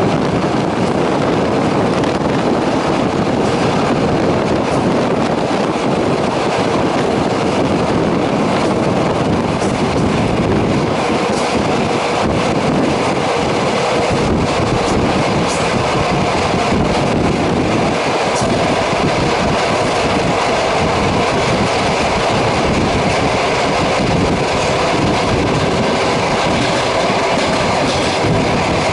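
Passenger train running along the line, heard from on board: a steady, loud rumble and hiss of the wheels on the rails, with a few faint clicks.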